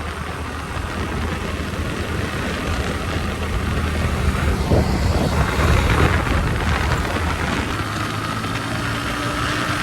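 Motorcycle engine running while riding, a steady low hum under wind rushing over the microphone, getting somewhat louder around the middle.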